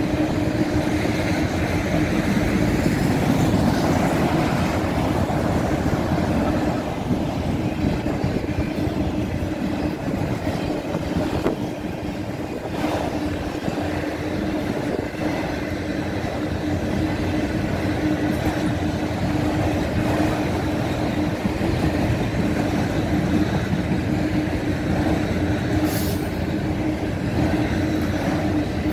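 Autorack freight cars rolling past: the steady rumble and clatter of steel wheels on the rails, with a constant tone running underneath.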